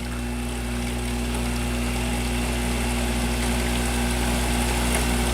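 Arctic Queen WWK05CM71N window air conditioner starting up on low cool: a steady hum from its compressor with the fan's rush, swelling gradually louder.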